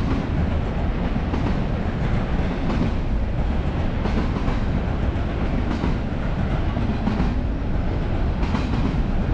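Freight train rolling past: a steady rumble of wheels on rail with irregular clicks as the wheels cross rail joints.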